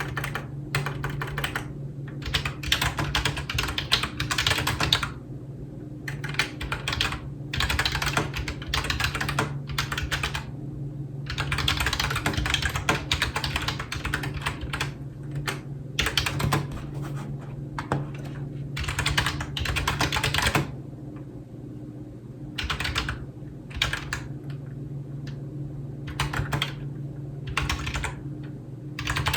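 Typing on a computer keyboard in runs of rapid key clicks, broken by short pauses, over a steady low hum.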